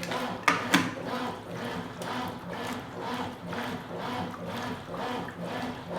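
Consul Supercargo 8 kg top-load washing machine agitating a load of towels: water sloshing as the agitator swishes back and forth in a steady repeating rhythm, with two sharp clicks about half a second in.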